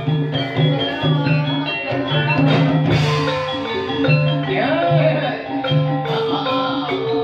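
Live ebeg dance music: tuned mallet percussion plays repeated notes over drums, with a cymbal crash about three seconds in.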